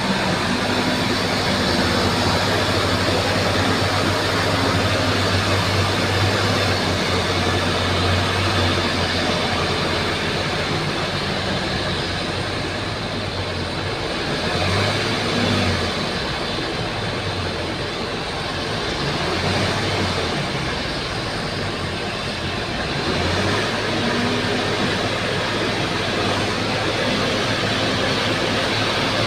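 Bulldozer's diesel engine running at work, its low drone wavering and shifting in the middle as the load changes.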